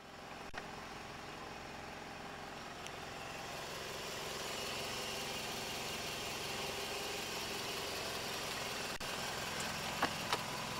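Car engine running at idle, a steady hum that grows a little louder over the first few seconds, with two short sharp clicks near the end.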